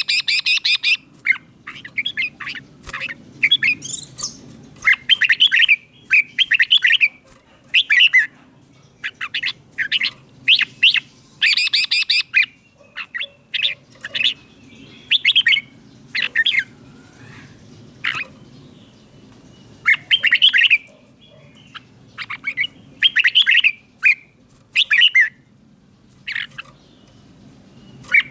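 Red-whiskered bulbul singing short, bright, warbling phrases, one every second or two with some longer pauses, over a faint low hum.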